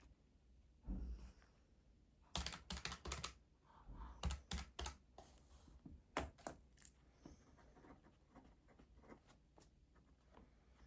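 Keys tapped in quick runs of keystrokes, three main bursts, with a soft thump about a second in.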